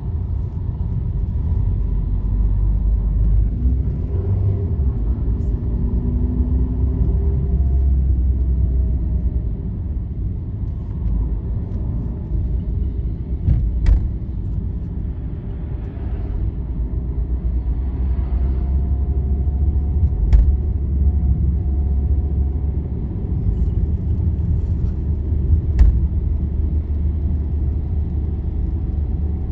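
Steady low rumble of a vehicle travelling along a highway, with a faint whine that shifts slightly in pitch. Three sharp knocks stand out: one about halfway through and two more later.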